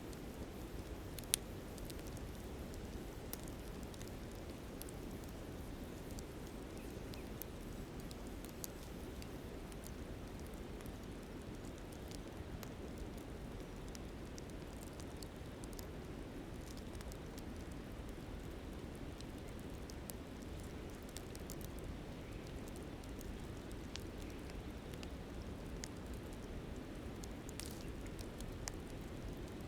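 Wood campfire crackling with scattered sharp pops, one louder pop about a second and a half in, over the steady low rush of a flowing river.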